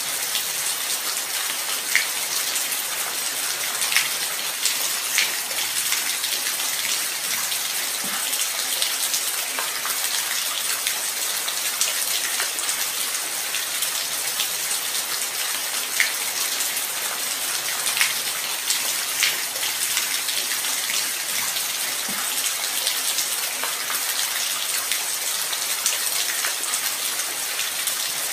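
Steady light rain: an even high hiss with scattered sharp drips and taps from individual drops landing on a surface.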